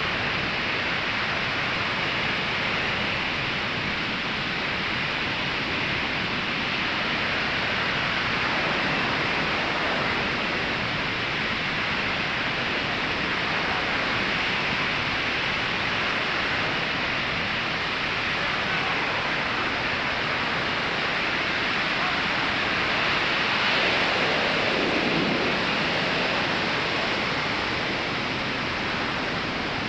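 Ocean surf breaking and washing on a sandy beach, a steady hiss of water that swells and eases gently, a little louder about three-quarters of the way through.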